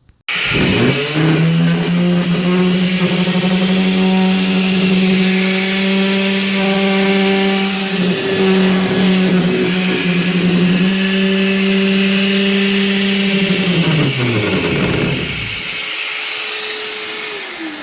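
Ryobi RS290G 2.6-amp corded 5-inch random orbital sander switched on. Its motor spins up at once, runs at a steady pitch for about thirteen seconds, then is switched off and winds down with falling pitch. A second, higher whine glides down and fades near the end.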